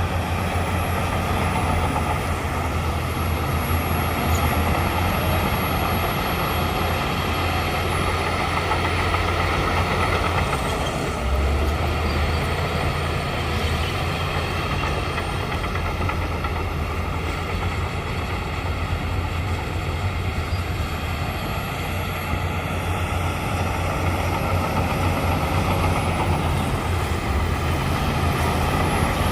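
Shantui crawler bulldozer's diesel engine running steadily under load while pushing dirt, a continuous low drone with little change in pitch.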